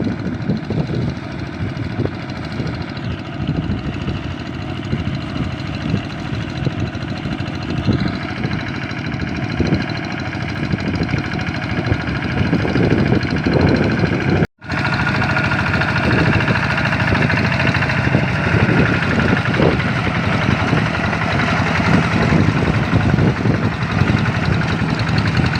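Single-cylinder diesel engine of a Kubota RD85 hand tractor running steadily, with a momentary gap about halfway through.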